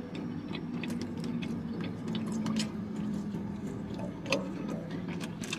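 Close-up chewing and biting of fried chicken wings: irregular wet clicks and smacks, one louder about four seconds in, over a steady low hum inside a car.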